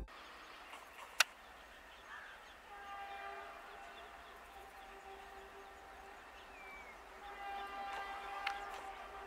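Faint sound of an approaching electric train: a steady two-note tone that swells slightly near the end. There is a single sharp click about a second in and a brief bird chirp midway.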